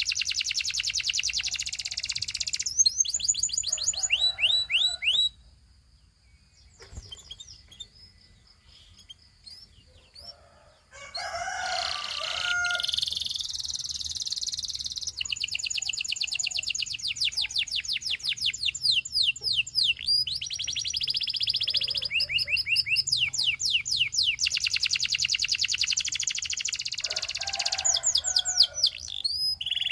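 Domestic canary singing fast trills of rapidly repeated high notes. The song breaks off about five seconds in, leaving a few soft chirps, and starts again about six seconds later.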